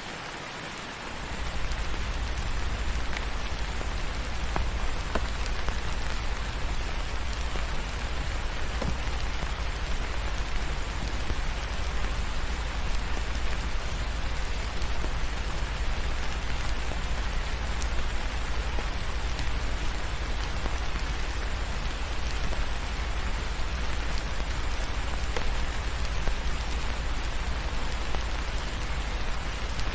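Steady rainfall, an even dense hiss of drops. A deep steady rumble joins underneath about a second in, and the whole grows louder.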